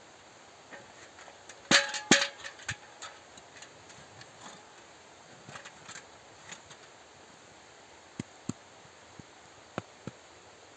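Two loud knocks with a brief metallic-sounding ring about two seconds in, followed by scattered faint clicks and a few sharp ticks.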